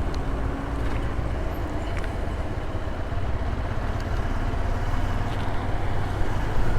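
Steady low vehicle rumble, engine and road noise, with a few faint clicks.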